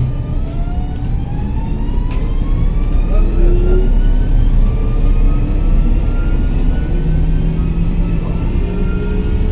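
Stockholm commuter train's VVVF traction inverter whining as the train accelerates, several tones rising in pitch in stages over the rumble of the running train.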